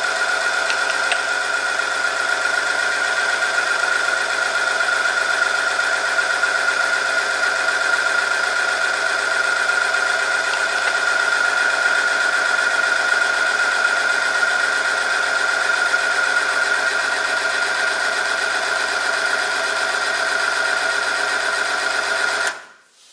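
Motor-driven oil film friction test machine running with a loud, steady high whine as the test sample rubs on the rotating part through the oil. Near the end it stops abruptly.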